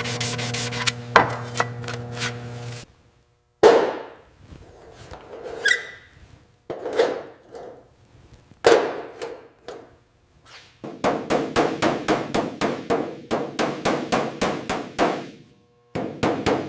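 Hammer blows in a metal workshop: a few separate strikes, then a quick run of about five blows a second, after a steady machine sound with a hum cuts off about three seconds in.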